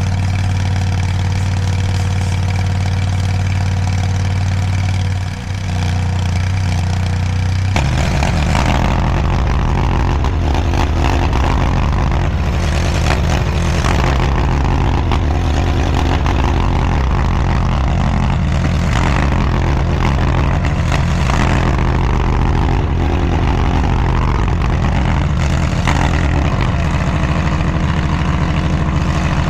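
DIGGIT SCL850 stand-behind mini skid steer's engine running steadily, then from about eight seconds in running rougher and busier as the machine works the dirt, with occasional knocks.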